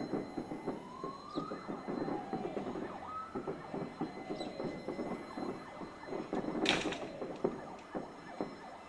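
Fireworks from an exploding fireworks factory going off without pause: dense crackling and popping with several rising and falling whistles, and one loud bang about two-thirds of the way through.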